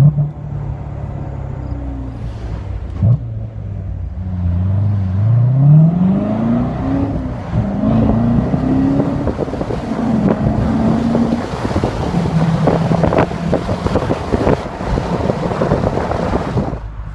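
Chevrolet Corvette C7 Stingray's 6.2-litre LT1 V8 under way with the top down. The engine note climbs for a few seconds under acceleration, then drops at a gear change and runs steadier, with some wind noise.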